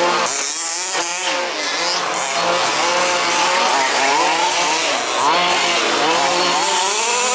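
Several 1/5-scale RC off-road buggies' small two-stroke petrol engines racing together, each revving up and down, so their buzzing pitches rise, fall and overlap without a break.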